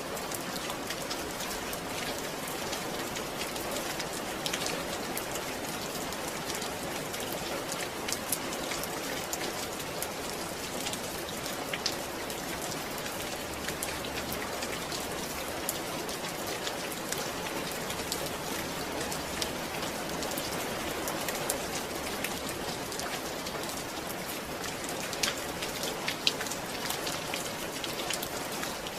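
Steady rain falling on a surface, an even patter with scattered louder drops.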